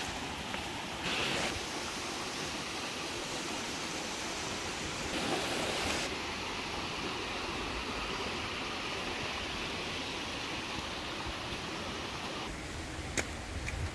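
River water rushing in a steady hiss, a little louder twice, with one sharp click near the end.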